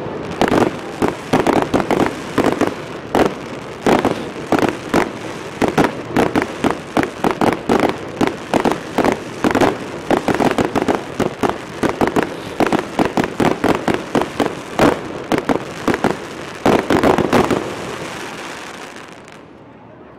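Fireworks going off in a rapid, irregular string of sharp bangs and crackles, several a second. They die away over the last couple of seconds.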